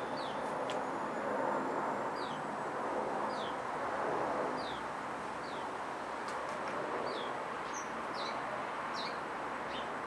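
A small songbird repeating a short, high, falling chirp about once a second, over a steady background noise.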